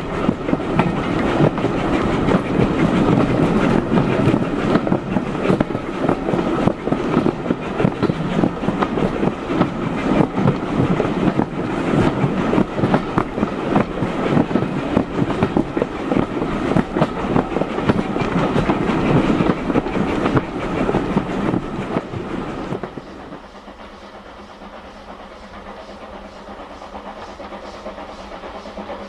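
Steam-hauled train carriage running along the line, with a dense rumble and clickety-clack of wheels over rail joints. About 23 seconds in it suddenly turns much quieter and steadier.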